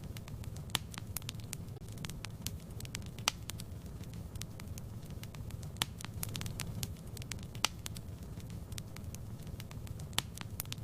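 Fireplace fire crackling: irregular sharp pops, a few close together then sparser, over a steady low rumble.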